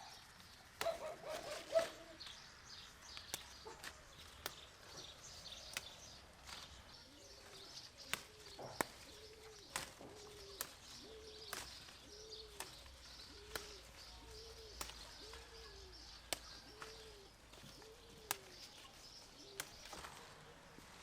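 Birds calling: a run of about a dozen low, arched calls repeating evenly, under high chirping from small birds. Scattered sharp clicks are heard throughout.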